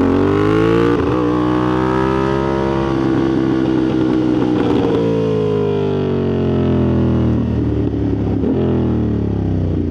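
Motorcycle engine running under way, its pitch slowly climbing and then easing off, twice, over steady wind rush.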